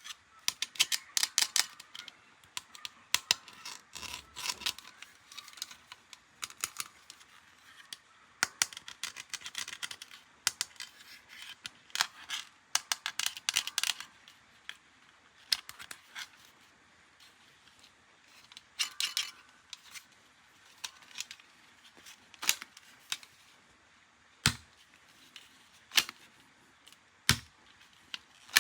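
Hard plastic toy parts and packaging being handled: irregular clusters of clicks, taps and rattles with short pauses, then a few sharper single clicks near the end.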